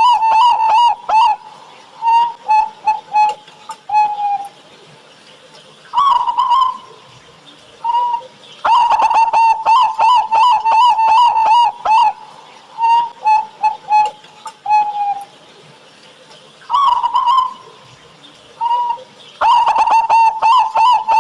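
Perkutut (zebra dove) cooing in repeated song phrases: a fast run of rapid notes followed by a few separate coos, the phrase coming round about every eight seconds.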